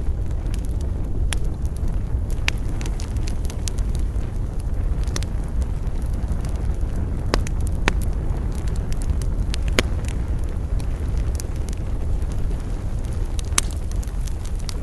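Wood fire crackling, with sharp pops every second or few seconds over a steady low rumble.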